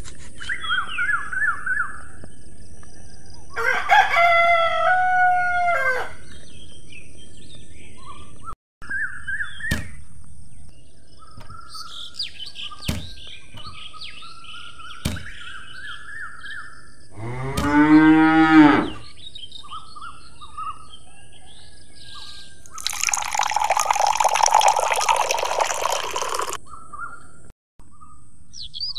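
Farmyard and bird ambience: small birds chirping on and off, a rooster crowing about four seconds in, and a lower, drawn-out animal call around the middle. A few sharp clicks and, near the end, a hissing burst of about three seconds.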